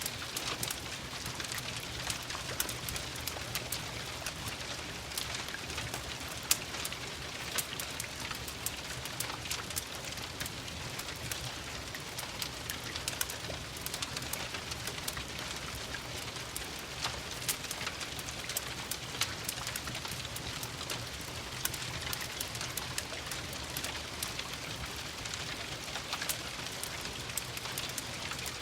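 Steady rain pattering, mixed with frequent sharp pops and crackles from a wood fire in a fireplace.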